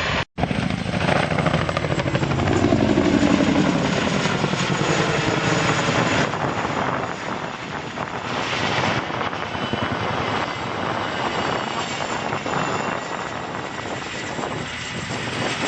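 Boeing Chinook tandem-rotor helicopter flying a display, its rotor blades chopping steadily over the engine noise; loudest about two to four seconds in, where the pitch falls as it passes. The sound drops out for an instant just after the start.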